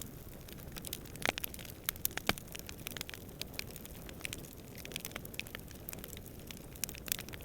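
Campfire crackling: irregular sharp pops and snaps, a few louder ones about a second in, two seconds in and near the end, over a steady low rumble of distant wind.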